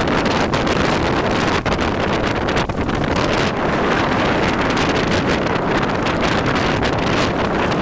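Steady, loud wind noise buffeting the microphone, an even rush with no distinct tones.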